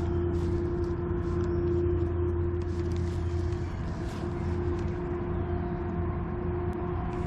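A steady mechanical hum holding one constant tone over a low drone, with faint light ticks on top.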